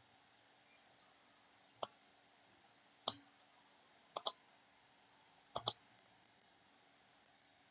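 Computer mouse clicks: two single clicks, then two quick double-clicks, over a faint steady hum.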